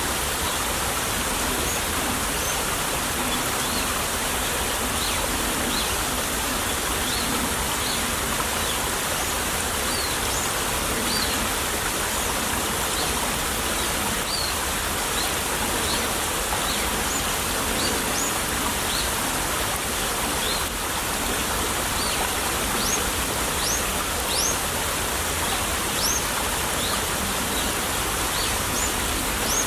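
Small stream babbling steadily over stones. Short, high rising bird chirps repeat every second or so throughout, more of them in the last few seconds.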